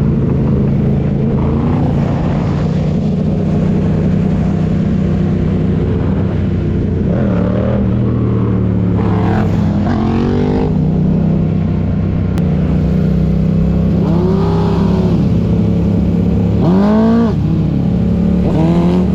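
Motorcycle engine running steadily, revved up and dropped back several times, each rev a short rise and fall in pitch.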